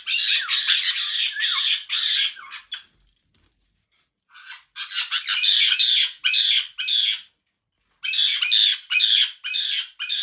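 A parrot squawking: harsh, rapid runs of calls in three bouts of about two to three seconds each, with short pauses between them.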